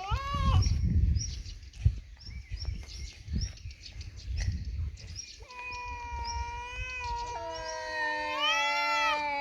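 Cats caterwauling in a territorial fight. A short rising-and-falling yowl opens, followed by a few seconds of low bumps and rustle. From about halfway a long drawn-out yowl sets in, joined by a second, lower-pitched one; both warble up and down near the end.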